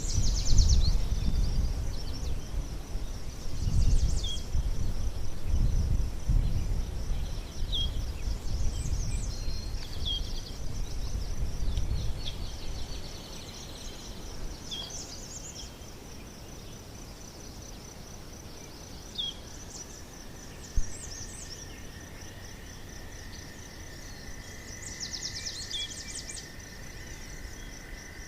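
Outdoor nature ambience: a continuous high insect trill with scattered short bird chirps. A low rumble, like wind on the microphone, fills the first half and then fades, and a thin steady tone joins about two-thirds of the way through.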